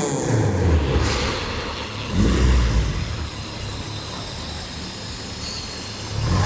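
Four-cylinder engine of a Honda DC5 Integra running at low revs as the car is manoeuvred slowly. The engine swells louder briefly about two seconds in, then settles to a steady, quieter run.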